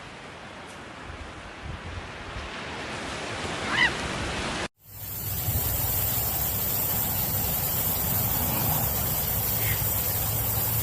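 Steady rushing noise with a brief wavering high-pitched cry about four seconds in, then an abrupt change to a louder hiss over a low steady hum.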